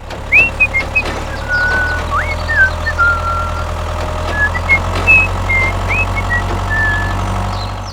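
Tractor engine running steadily with a low hum, with short, high whistling chirps scattered over it.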